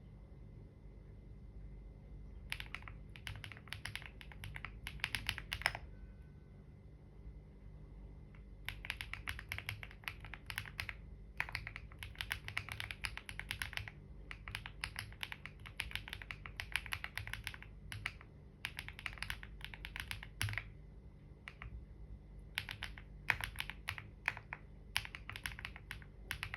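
Computer keyboard typing in quick runs of keystrokes, broken by short pauses of a second or two, over a low steady hum.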